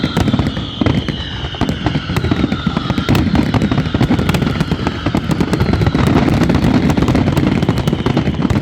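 Fireworks display going off continuously: rapid crackling bangs over low rumbling booms, with high whistles gliding down in pitch.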